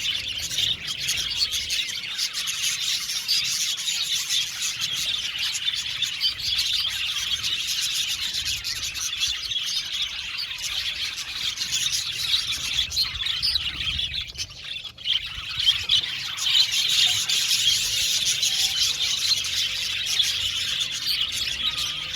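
A colony of budgerigars chattering: a dense, continuous warble of many overlapping high chirps from many birds at once, thinning briefly about two-thirds of the way through.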